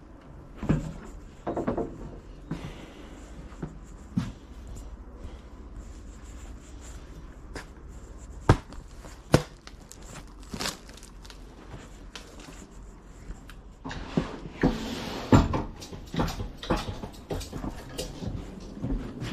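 Scattered knocks and thuds of cargo being handled, with two sharp clacks about eight and nine seconds in and a busier run of thumps and scraping near the end, over a low steady rumble.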